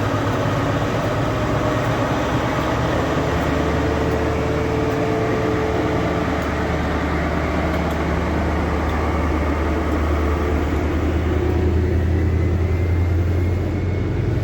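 Diesel train engine running with a steady low drone under a wide rumble; about eleven seconds in the higher rumble dies away while the low engine drone grows stronger.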